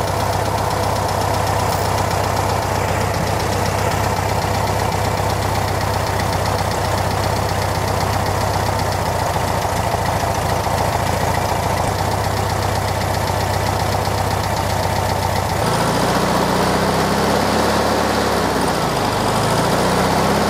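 1969 VW Beetle's air-cooled flat-four engine idling steadily, then, about three-quarters of the way through, revved up and down twice at the carburettor to check the distributor's ignition advance.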